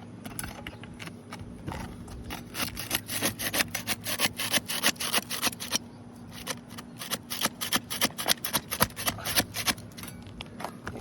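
Quick repeated scraping strokes, about four a second, of a tool worked back and forth under asphalt shingles to break their adhesive seal. They come in two spells with a short pause between.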